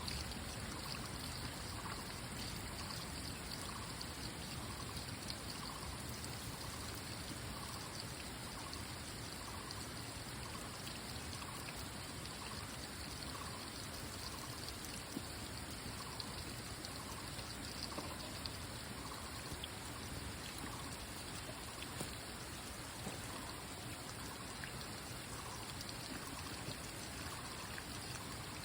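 Water trickling and flowing steadily, like a small stream, with a faint short call repeating about once a second.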